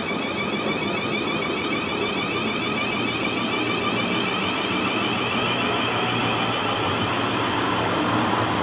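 A train running past, its noise steady and growing slightly louder toward the end.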